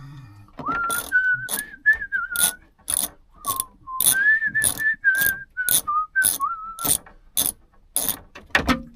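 A man whistling a tune while a ratchet wrench clicks in steady strokes, about two a second. The whistling stops about two seconds before the end while the ratcheting keeps on.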